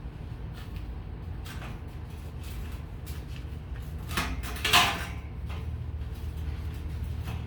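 Workshop handling sounds over a steady low hum: a few light knocks and scrapes, and one louder, short scrape or crackle a little past halfway.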